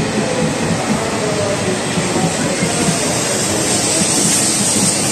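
Coupled E5 and E6 series Shinkansen train departing, its cars rolling past at low speed with a steady rumble and rush of running noise; the hiss grows brighter in the last second or two.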